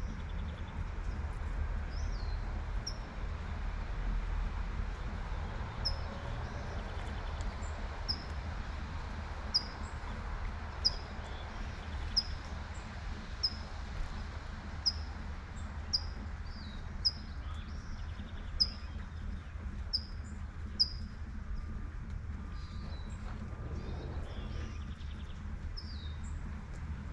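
A bird repeating one short, high chirp about once a second through much of the stretch, with a few other bird calls, over light rain and a steady low city rumble.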